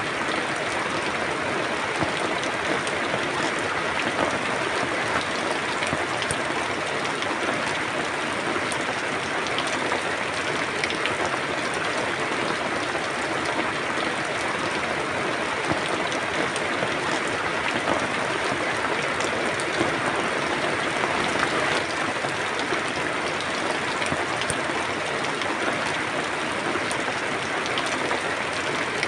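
Steady rain falling, a dense even hiss with scattered individual drops pattering on a surface.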